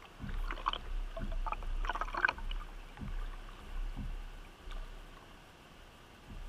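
Kayak paddling: a run of irregular splashes and knocks in the first couple of seconds, then a few single dull thumps.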